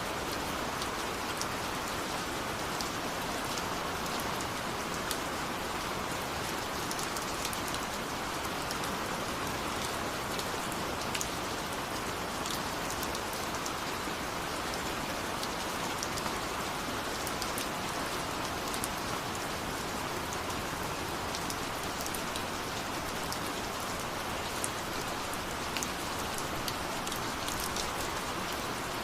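Steady rain falling, an even hiss with fine drop ticks scattered through it.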